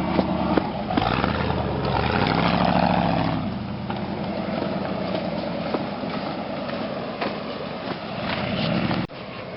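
1988 Ford F-150's 302 (5.0 L) V8 running, swelling louder over the first few seconds and then holding steady; the sound drops off abruptly near the end.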